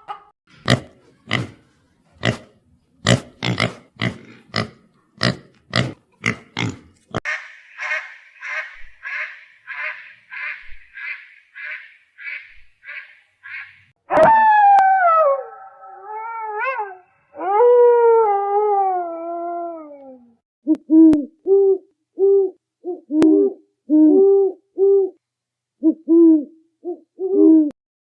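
A succession of different animal calls: a quick run of sharp short calls, then a fast steady series of high chirps, then long falling howls, then a string of short repeated hoots.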